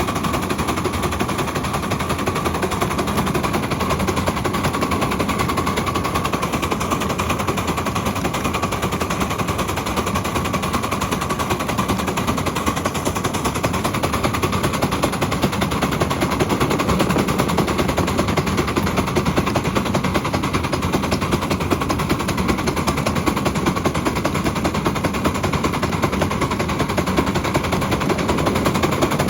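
Ride-on scale Mikado locomotive running, heard from the cab: a rapid, continuous clatter that keeps up steadily throughout.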